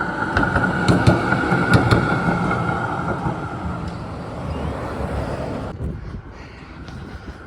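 Tram running on the line, a steady noise with a high whine held throughout and a few sharp clicks in the first two seconds, easing off after about six seconds.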